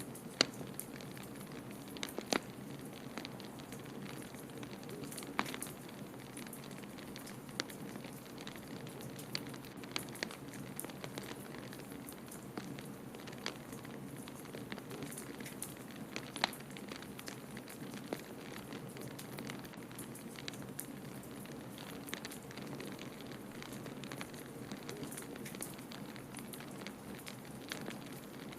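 Wood fire crackling in a fireplace, with sharp pops and snaps at irregular intervals over a steady low rushing noise.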